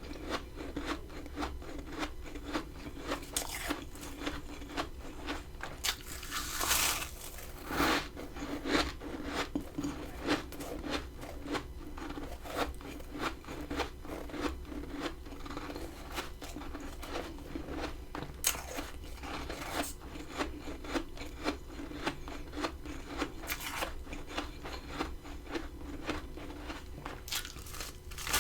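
Freezer frost being bitten and chewed close up: a steady run of small crisp crackles with louder crunches now and then.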